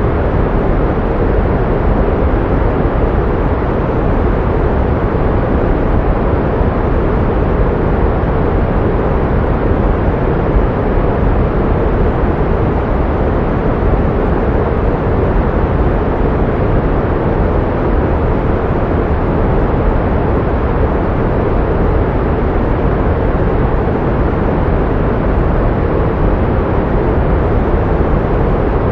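Pink noise: a steady, even hiss, fuller in the bass than white noise, unchanging throughout.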